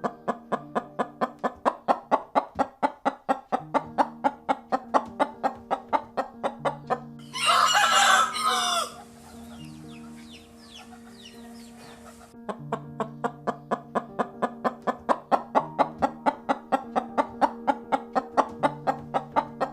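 A rooster crows once, loudly, about seven seconds in. A steady rhythm of plucked-string music with a bass line plays around it and stops for a few seconds after the crow.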